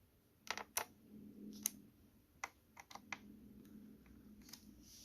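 Scattered sharp clicks of a small screwdriver working the screws of a laptop's bottom panel, checking that they are snug.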